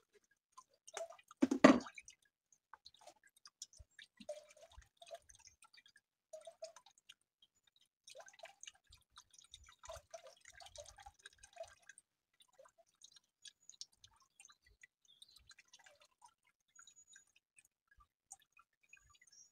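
Liquid dripping, with small wet squishing and clicks, and one louder splash about one and a half seconds in. This is typical of wet, soaked juniper berries and their juice being handled and strained.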